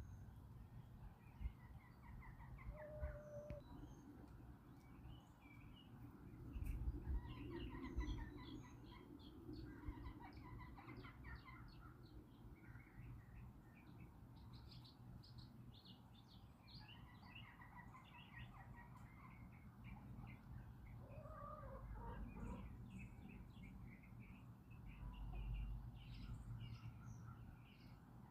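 Songbirds chirping and twittering throughout, faintly, with a few soft calls from backyard chickens, over a low rumble that swells twice.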